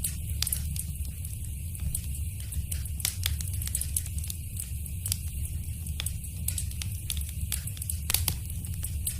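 Fireplace fire crackling: frequent short, sharp pops and snaps over a steady low rumble, with a few louder pops about eight seconds in.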